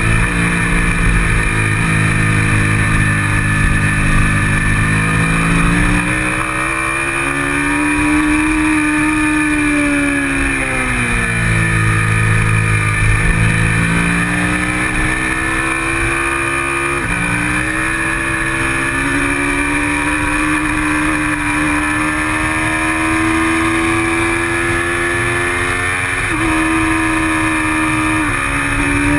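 Kawasaki Ninja 650R's parallel-twin engine at racing speed, heard from on the bike. Its pitch climbs steadily under acceleration, drops sharply at gear changes, and dips and rises again through the corners.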